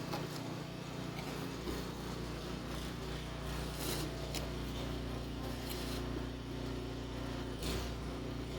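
Snow shovel scraping through packed snow a few times, in short strokes, over a steady low hum.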